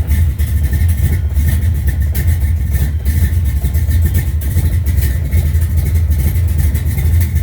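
Heavily cammed 440 big-block V8 of a 1969 Dodge Charger R/T, idling loudly and steadily. The engine is running cold, with no choke fitted.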